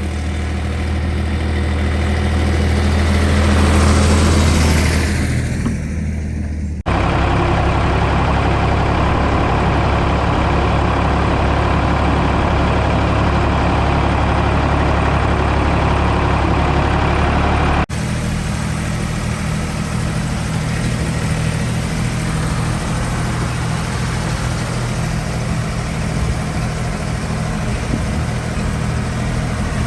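Ford 555 backhoe loader's engine running, rising in level to a peak about four seconds in and easing back, then running steadily. The sound changes abruptly twice, about seven and eighteen seconds in.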